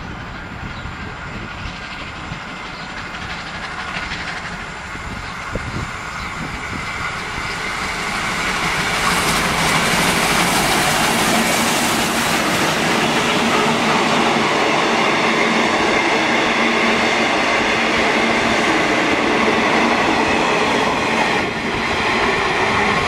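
Steam-hauled heritage passenger train, with a diesel coupled behind the steam locomotive, approaching and passing close by. The rumble and clatter of wheels on the rails builds about eight seconds in and stays loud and steady as the carriages go past.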